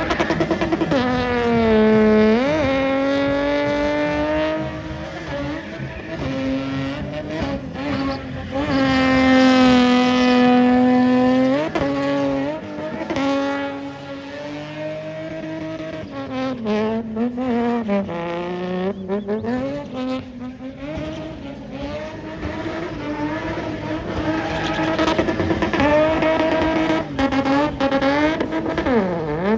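Performance car engine working hard, its pitch climbing and falling with the revs over and over, with a few sudden sharp dips that swing straight back up.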